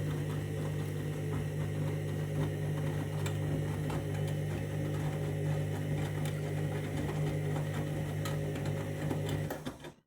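Candy Grand'O Vita washing machine in its main wash, the drum tumbling with a steady motor hum and light irregular clicks and knocks from the load. It cuts off abruptly near the end.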